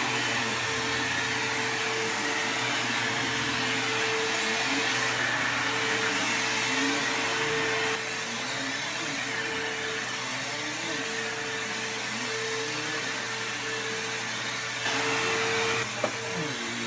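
Bissell Cleanview II Bagless 3574 upright vacuum cleaner running: a steady motor whine over rushing air, with lower tones that waver up and down. It gets a little quieter about eight seconds in, louder again near the end, and a sharp click comes just before the end.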